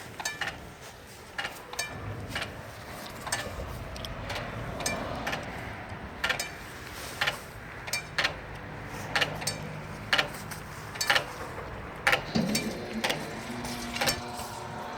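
Level crossing warning bell striking about once a second, each stroke sharp with a short ring, over a low rumble. A low engine hum comes in about twelve seconds in.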